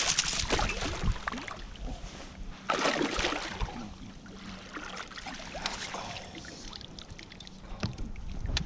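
Water splashing and sloshing against a boat, in irregular bursts over a faint steady hum.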